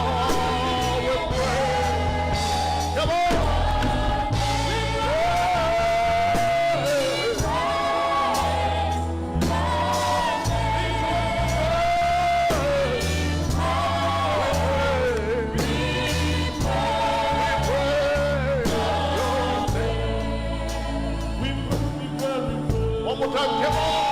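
Gospel praise singing: lead and choir voices over a band with a strong bass line.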